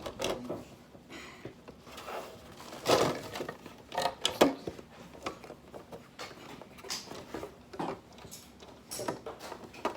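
Hard plastic toy pieces from a Tech Deck fingerboard set being handled and fitted together: scattered clicks and knocks among rustling, the loudest about three and four seconds in.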